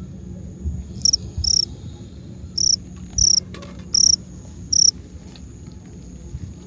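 A cricket chirping loudly close by: six short high chirps spread over about four seconds, over a thin steady high whine.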